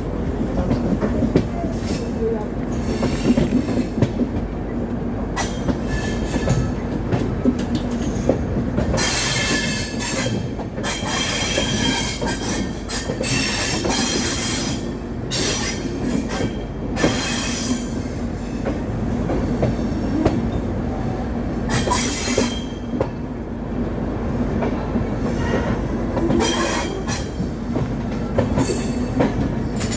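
Passenger train running along the track with a steady rumble, its wheels squealing high-pitched several times, in spells from about nine seconds in.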